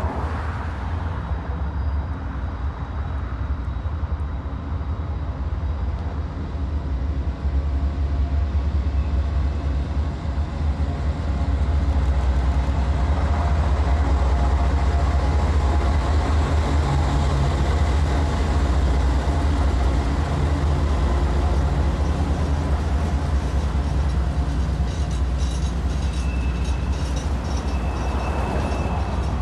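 A train going by, a steady low rumble that gets louder about twelve seconds in, with a faint high squeal and light ticking in the last few seconds.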